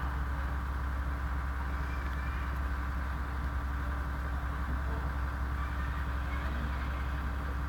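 Steady low electrical hum with a faint hiss from the recording's sound system during a pause in the recitation.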